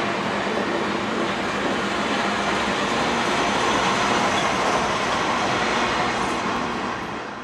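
Train passing close by: the last passenger business car and the trailing GE ES44DC diesel locomotive, with a steady rumble and rattle of wheels on rail. It is loudest as the locomotive goes by about four seconds in, then fades near the end.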